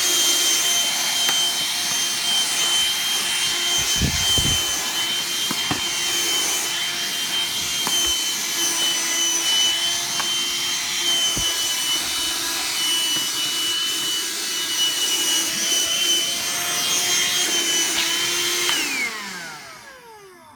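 Vacuum cleaner motor running steadily with a high whine and rushing suction, with a few short knocks along the way. Near the end it is switched off and the whine falls in pitch as the motor winds down.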